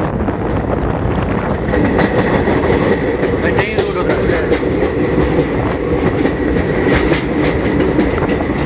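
Passenger train running on the rails: a steady rumble with intermittent clicks of the wheels over the track, and a thin steady high whine that sets in about two seconds in.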